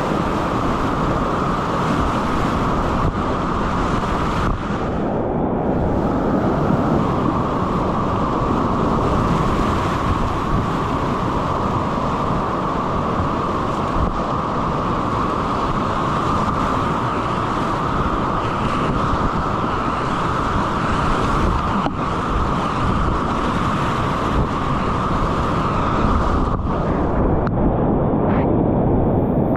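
Whitewater rapids rushing and splashing around a kayak, a loud, steady water noise close on the microphone. The sound goes briefly muffled twice, once about four seconds in and again near the end.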